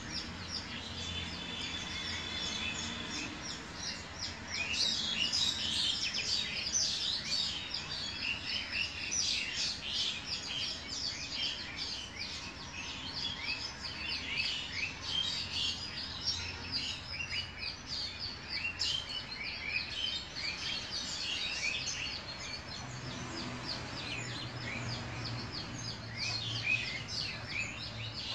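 Many small birds chirping in a dense chorus of short, quick chirps, growing busier about four seconds in.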